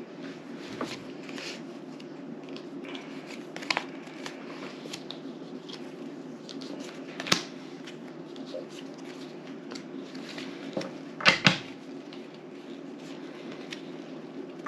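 Playing cards being handled and laid down on a table: scattered soft clicks and snaps, a sharper snap about seven seconds in and a short cluster of louder knocks about eleven seconds in, over a steady low room hum.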